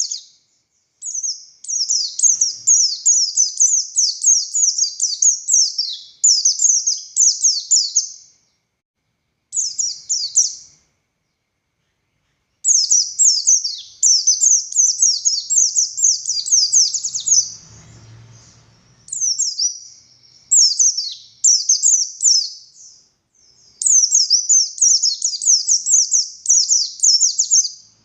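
A white-eye (pleci buxtoni) singing a long, fast, high-pitched twittering song. The notes come in quick rapid-fire runs, and there are two short pauses about a third of the way in.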